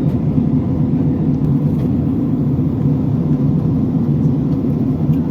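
Steady, loud drone of a jet airliner's cabin in flight: engine and airflow noise heard from inside the passenger cabin.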